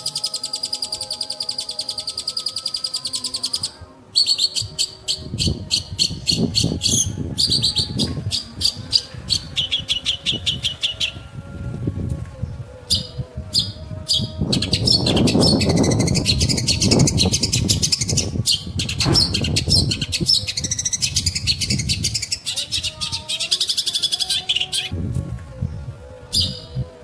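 Long-tailed shrike (pentet) singing: long runs of fast, rapid-fire high notes that break off and start again, over a low rumbling noise through much of it.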